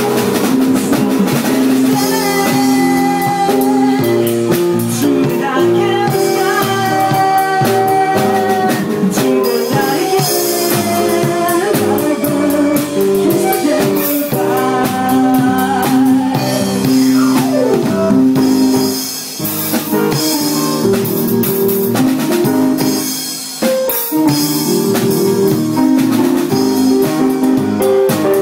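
Live instrumental band music: a violin plays a held, sliding melody over keyboard chords, with a drum kit keeping a steady beat.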